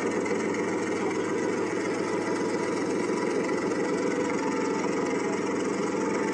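A steady engine running at an even pace, with a low, fast pulsing that does not change.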